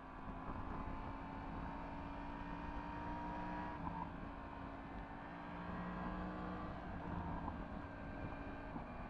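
Yamaha MT-10 SP's crossplane inline-four engine running at a fairly steady speed through its Akrapovic exhaust while riding, with road and wind noise. The engine note breaks briefly about four seconds in and again around seven seconds.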